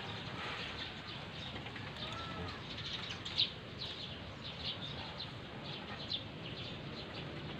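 Birds chirping, with a few short arched calls, over light clicks and taps from hands working a motorcycle's throttle grip and cable. The sharpest click comes about three and a half seconds in.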